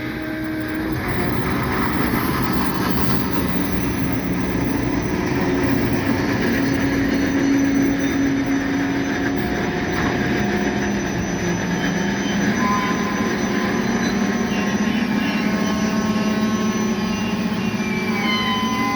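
Train rolling by with its brakes being applied: a steady rumble and rattle of the cars, with thin squealing tones from the brakes coming in during the second half and one falling in pitch near the end.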